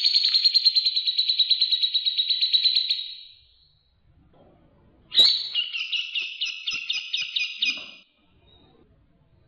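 Recorded songbird calls from a bird-training track that mixes cucak jenggot and sparrow calls. A rapid, buzzy trill lasts about three seconds. After a short pause comes a phrase of repeated chirps, about five a second, lasting nearly three seconds.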